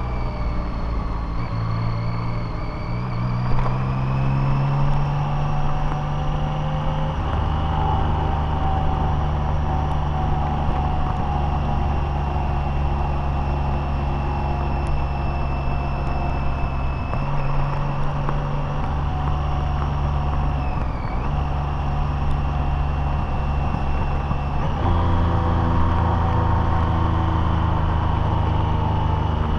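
Car engine and road noise while driving, steady, with a high whine over it; the engine note dips briefly and then shifts in step about three quarters of the way through, as with a change of gear or throttle.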